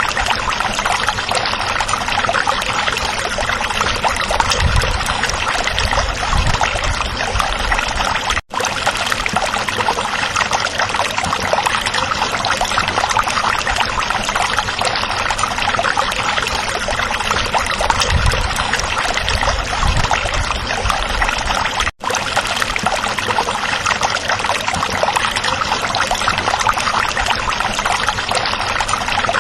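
Stream water flowing and trickling steadily, with a little low rumble at times. The sound drops out for an instant twice.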